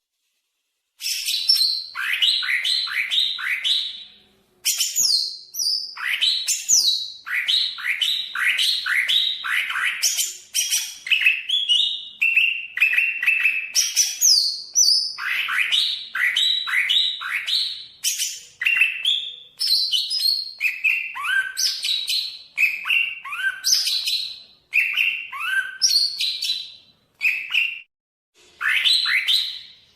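Cucak ijo (green leafbird) singing a fast, varied song, starting about a second in: runs of quick falling chirps, several a second, mixed with higher whistled notes, with a brief break twice.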